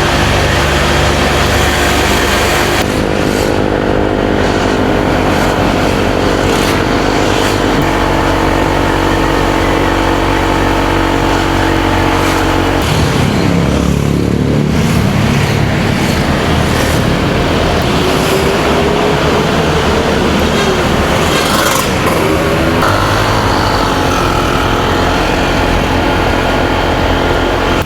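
Motorcycle engine running on the move, with wind and road noise. Its note holds steady, dips about halfway through, then climbs as the bike accelerates again.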